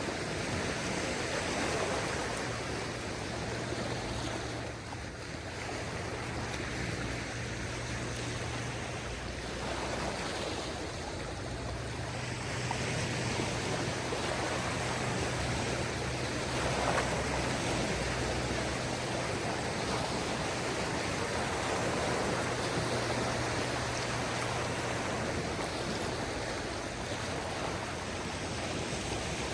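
Small waves of a calm sea washing onto the shore: a continuous rush of water that swells and eases every few seconds.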